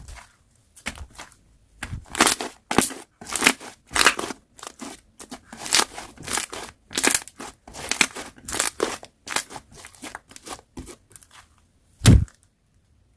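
Slime being squished and pressed by hand: an irregular run of crackling, crunchy squishes about twice a second, with one louder thump about twelve seconds in.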